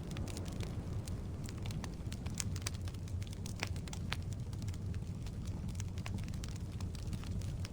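Wood logs burning in a fireplace: a steady low rush of the flames with irregular sharp crackles and pops from the wood.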